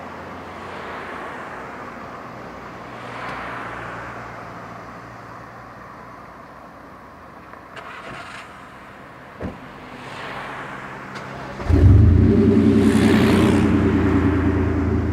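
Chevrolet Blazer Exclusive's V6 engine running with a low steady hum and a single knock partway through. Near the end the engine note jumps suddenly much louder and deeper as it is given throttle, then holds loud.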